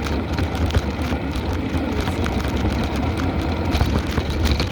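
Wind rushing over the microphone of a bicycle rider's camera at speed: a steady low rumble and rush with scattered small clicks and rattles.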